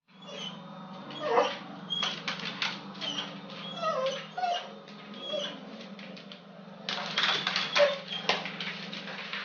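A pet making short, soft whining cries, several times, with scattered light knocks and a steady low hum behind.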